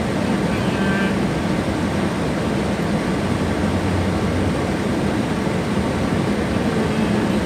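Steady rush of air and low hum inside a car cabin, the car's air conditioning blowing with the engine running.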